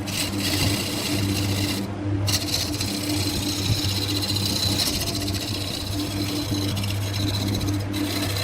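Wood lathe running with a steady motor hum while a turning tool scrapes and cuts the spinning wood. The cutting hiss breaks off briefly about two seconds in and again near the end.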